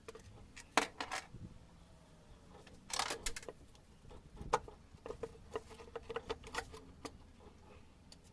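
Irregular sharp clicks and clinks of tools and small parts being handled, with a few louder knocks in the first half and a run of quicker, lighter clicks after the middle.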